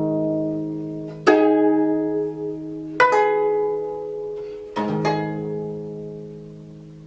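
Gayageum, the Korean plucked zither, playing slow, widely spaced plucked chords: three strikes about two seconds apart, each left to ring and fade away.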